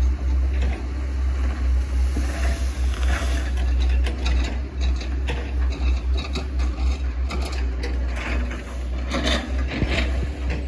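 Hitachi ZX110 MF excavator's diesel engine running steadily, with frequent irregular clicks, knocks and cracks over it from the machine at work.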